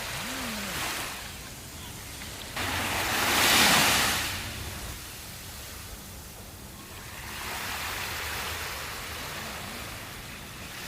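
Sea waves breaking on a sandy beach. One wave comes in sharply and breaks loudly a few seconds in, then washes out, and a gentler wave swells and fades later on.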